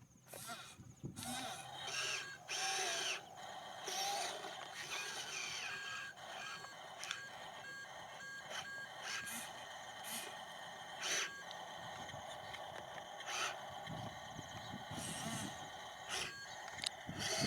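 Small electric motors of RC construction models whirring in short bursts over a steady whine, with scraping and knocking.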